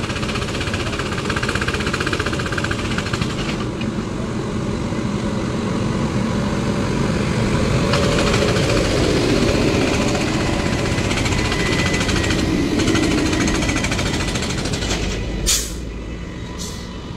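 Express train hauled by an electric locomotive passing close by: steady, loud rumble with rapid clatter of wheels on rail joints. Near the end the noise drops a little and a few sharp clicks come through.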